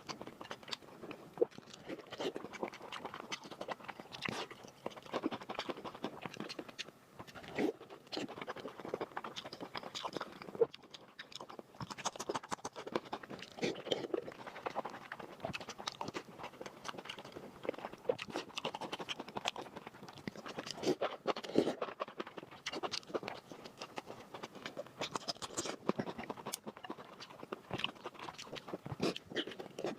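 Close-miked chewing and eating: a steady stream of irregular wet mouth clicks and smacks, with occasional crunchy bites.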